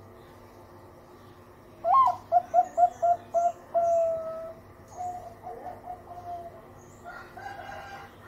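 Zebra dove (perkutut) cooing. About two seconds in comes a loud opening note and a quick run of short coos, then one longer held coo, then softer coos. Faint high chirps of other small birds sound behind it.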